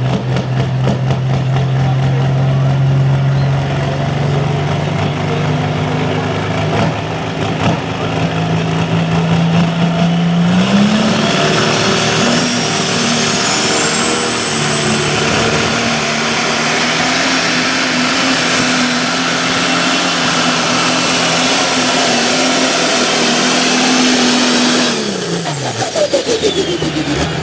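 Super stock John Deere pulling tractor's engine running hard under load through a pull: its note holds steady, climbs about ten seconds in, and stays up with a high whine rising above it. Near the end the engine note drops away sharply as the driver lets off.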